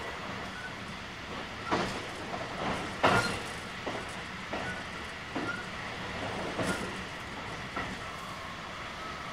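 JR West 223 series 2000-subseries electric train running at speed, heard from inside the passenger car: a steady rumble with about seven sharp knocks at uneven intervals as the wheels pass over track joints, the loudest about three seconds in.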